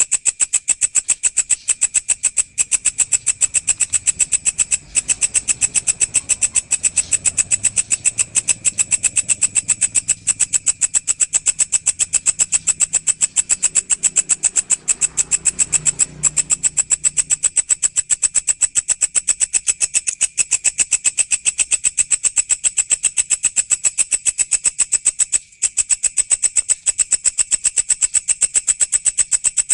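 Walang (a katydid) stridulating: a loud, fast, even train of dry high-pitched pulses, repeating many times a second, that stops for a moment three times.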